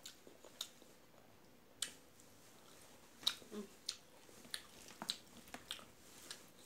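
Faint, close eating sounds: a person chewing a mouthful of rice, with a dozen or so soft, scattered mouth clicks and smacks.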